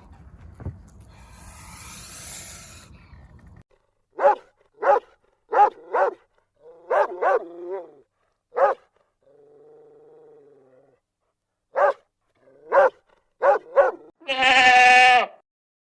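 A dog barking, about a dozen short barks, singly and in quick pairs, with a faint low sound between them midway. Near the end a long bleat starts.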